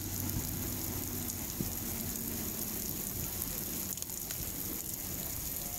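Heavy rain falling steadily on paved ground, an even hiss of downpour.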